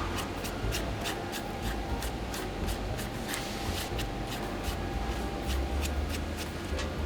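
Quick, repeated hand rubbing or scraping strokes, about four a second, over a steady low hum.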